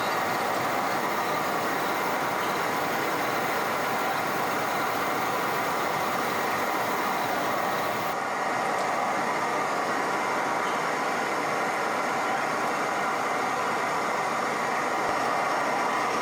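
River water rushing steadily, an even hiss with no breaks; the tone shifts slightly about eight seconds in.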